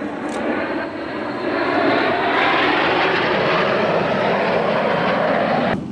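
Loud aircraft engine noise, a dense rush that swells about two seconds in and cuts off abruptly near the end.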